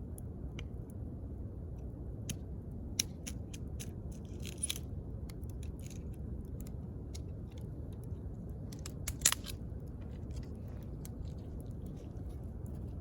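Wood campfire burning: a steady low rush of flame with scattered crackles and sharp pops, the loudest pop about nine seconds in.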